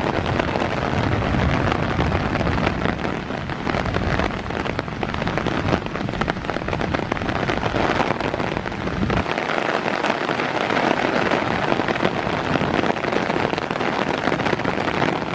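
Heavy rain pouring down, a dense steady patter of drops, some striking close to the microphone. A low rumble underneath stops about nine seconds in.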